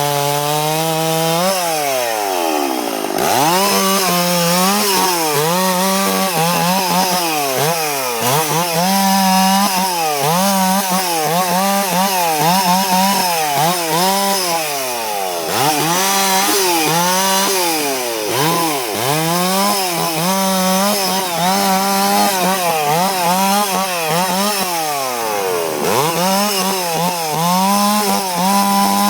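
Stihl 066 two-stroke chainsaw running at high revs while cutting eucalyptus wood, its pitch dipping again and again as the chain bites and then recovering. About two seconds in the revs fall away sharply and come straight back up.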